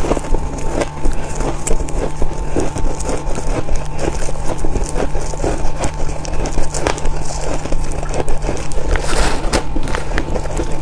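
Chewing of crunchy freezer frost close to the microphone: a dense, continuous run of crackling crunches over a steady low hum.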